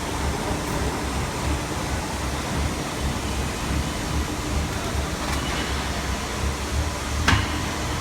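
250-ton hydraulic metal baler running: a steady low machine hum with a constant tone, and one sharp clank near the end.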